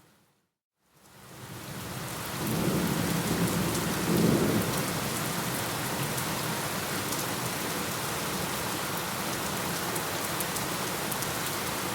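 Thunderstorm recording: after a moment of silence, steady heavy rain fades in, and thunder rumbles twice a few seconds in before the rain carries on evenly.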